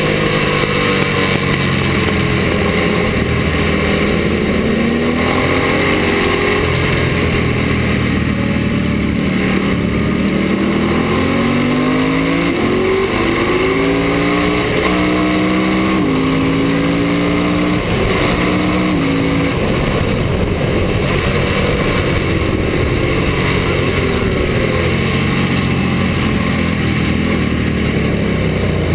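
Ducati racing motorcycle engine at full race speed, pitch repeatedly climbing as it revs out and dropping back with each quick upshift, over a constant rush of wind noise.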